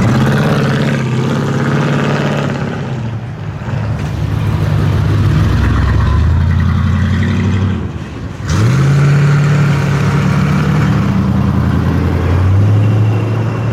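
V8 muscle car engines running at low speed on a cruise, a steady deep engine note with gentle rises in pitch. A little past halfway the sound breaks off abruptly, and another engine note comes in with a short rise in pitch and then holds steady.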